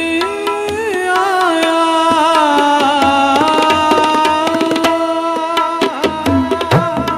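Sikh kirtan in Raag Malhar: a male ragi holds and ornaments a long sung note on the word 'aaya', over a steady tabla accompaniment.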